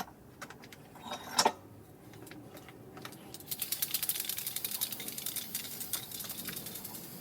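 Scattered clicks and a sharp knock about a second and a half in, then a fast, continuous metallic clicking and rattling from about halfway through.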